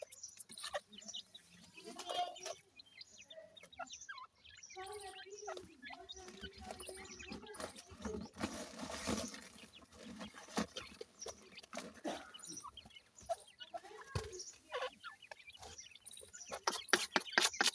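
Grey francolin chicks calling with soft clucks and chirps while feeding, among scattered sharp taps that thicken into a quick run near the end.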